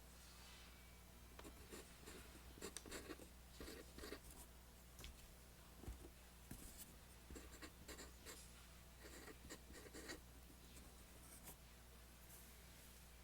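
Pencil drawing lines on paper: a run of short, irregular scratching strokes that stops near the end.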